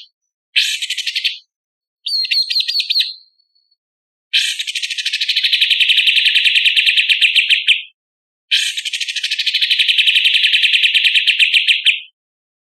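A songbird singing rapid, harsh trills: two short bursts of about a second each, then two long rattling trills of about three and a half seconds each, with clean silent gaps between the phrases.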